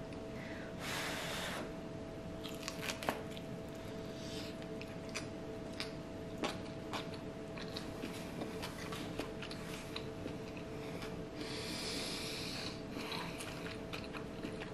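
A person chewing a bite of cheese- and chicharrón-filled pupusa, with small scattered mouth clicks and two short rushes of noise, about a second in and near the end. A faint steady hum runs underneath.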